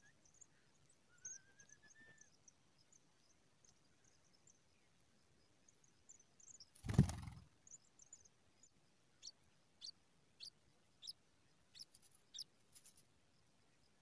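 Faint, thin high chirps of pipits at the nest, with a short rising whistle about two seconds in and a string of about nine short, sharp high calls, roughly twice a second, in the second half. About halfway there is a loud brief rustling thump.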